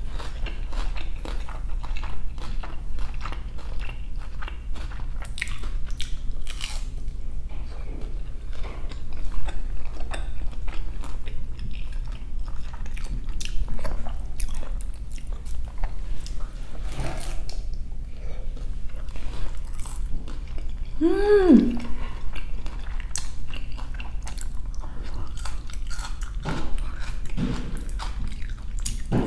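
Close-miked mouth sounds of eating grilled quesobirria tacos: repeated bites and chewing with crunching of the crisp tortilla. A short hummed "mm" of the voice comes about two-thirds of the way through.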